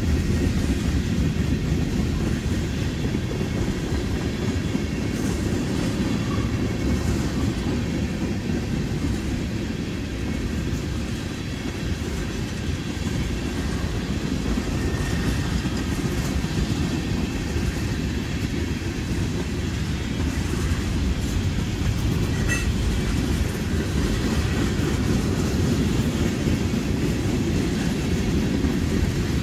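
Freight train cars rolling past on the track: a steady low rumble of steel wheels on rails.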